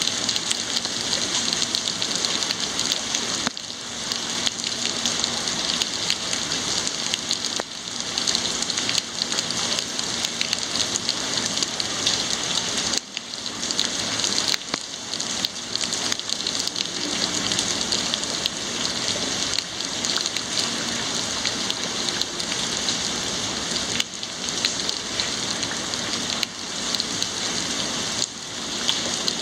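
Heavy rain falling and spattering on surfaces in a steady, dense hiss, with fine crackling drops throughout.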